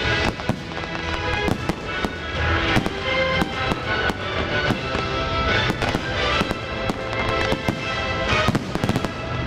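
Aerial firework shells bursting and crackling in quick succession, over the display's accompanying music.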